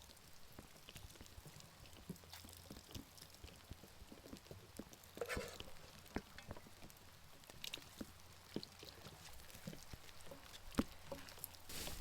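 Light rain pattering, scattered drips and taps landing irregularly, with a brief louder rustle about five seconds in and one sharper tap near the end.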